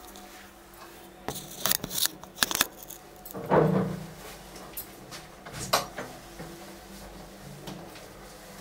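Light clinks and rattles of small hard objects: a quick run of clatters from about one to three seconds in, then a louder short sound with a low pitched tone around three and a half seconds in, and one more click near six seconds.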